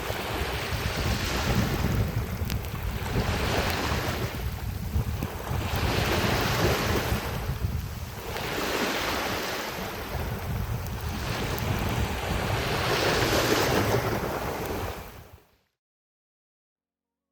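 Sea waves washing onto the shore, surging and falling back every few seconds, with wind buffeting the microphone; the sound fades out about fifteen seconds in.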